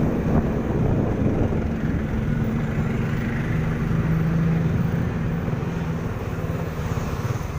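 Vehicle engines running in slow traffic: a steady engine hum that grows a little louder about halfway through, then eases off near the end.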